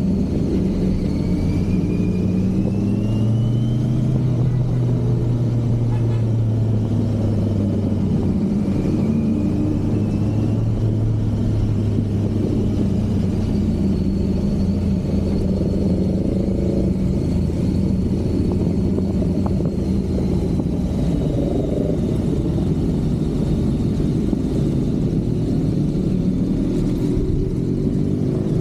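Kawasaki Z900's inline-four engine running steadily under way, rising in pitch briefly a few seconds in as it picks up revs.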